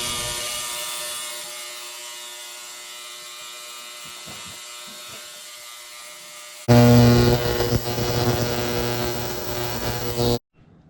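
Fuel injector buzzing steadily as a pulse tester fires it rapidly, cleaning out corrosion. The buzz fades, comes back abruptly louder about two-thirds of the way through, then cuts off suddenly near the end.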